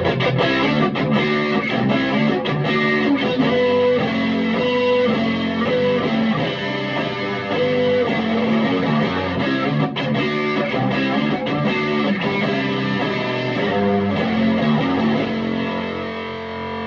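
Electric guitar played through a Vintage Sound Amp valve amplifier with a light overdrive, picking single notes and strummed chords. Near the end it settles on a chord that rings out.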